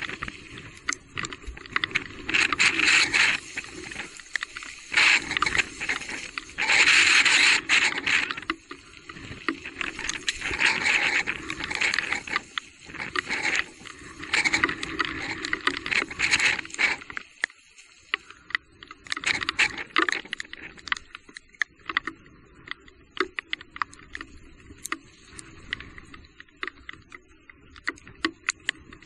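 Bicycle riding over a rough, wet trail: tyre noise rising and falling in swells, with many clicks, knocks and rattles.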